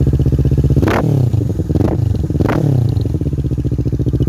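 Kawasaki Z650 engine idling through a Leo Vince exhaust with its baffles out, which makes it loud. About a second in it is revved three times in quick succession, the first and last blips the strongest, then it settles back to a steady idle.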